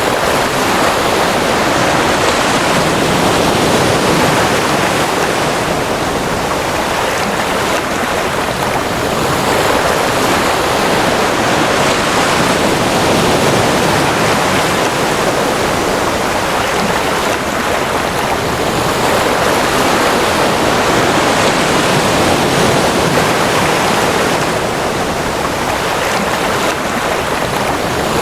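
Ocean waves: a continuous wash of surf that swells and eases every several seconds.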